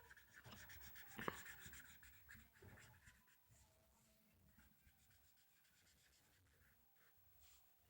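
Faint strokes of a felt-tip marker on paper while colouring, mostly in the first few seconds, then near silence.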